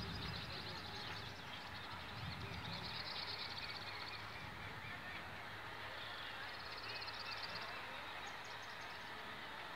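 Birds calling over a steady outdoor background hiss, with a short rapid high trill about three seconds in and another about seven seconds in.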